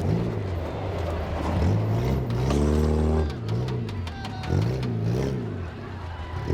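Demolition derby car engines revving up and down over and over, each rev a rise and fall in pitch, with light clicks and knocks mixed in.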